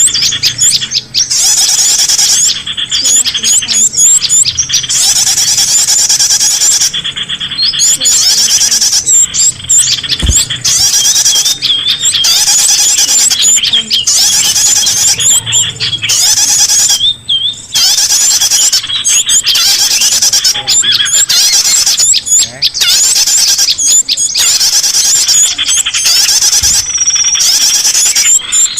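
Loud, dense chorus of small songbirds, many high-pitched chirps and trills overlapping almost without pause: a bird-lure (pikat) call recording played to attract small birds.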